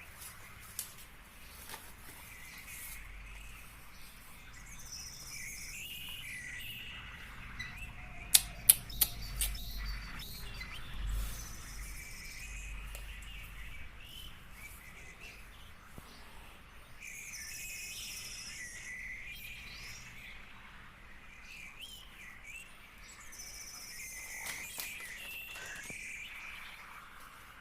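Soft, intermittent bird chirping, with a few sharp clicks about eight to nine seconds in.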